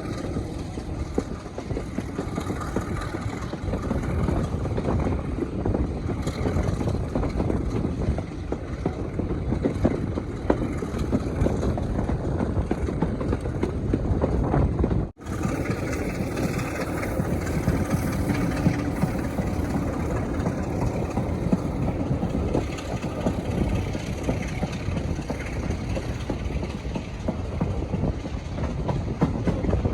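Diesel locomotive engine running loud and heavy, a dense steady rumble. The sound drops out for an instant about halfway through.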